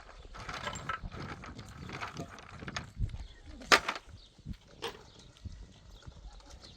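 Scattered knocks and clicks at an irregular pace, the sharpest one a little past halfway through.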